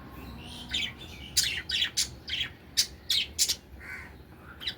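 Budgerigars chirping and squawking in many short, sharp calls, one after another.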